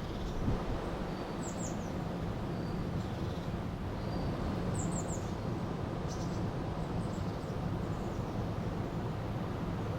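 River water rushing steadily, with small birds giving short high chirps: quick runs of three falling notes about a second and a half in and again about five seconds in.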